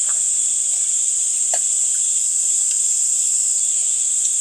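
Steady high-pitched chorus of insects buzzing without a break, with a faint clink about one and a half seconds in.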